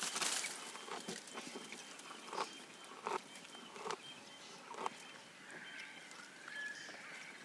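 Giraffe browsing: a rustling burst at the start, then short crunching chews or leaf pulls about once a second. Birds whistle faintly in the second half.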